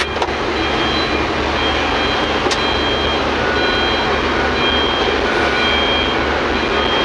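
Heavy mining machinery running steadily, with the short, high beeps of reversing alarms sounding on and off over the engine noise.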